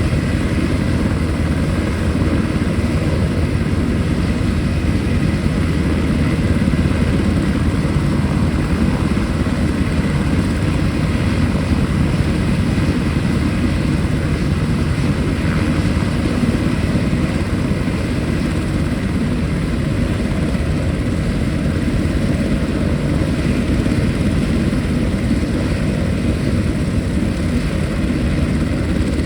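Military helicopter running loud and steady: the whine of its turbine engine and the beat of its rotor.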